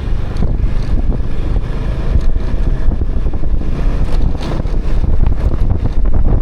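Motorbike running at riding speed, a steady low rumble, with wind buffeting the microphone.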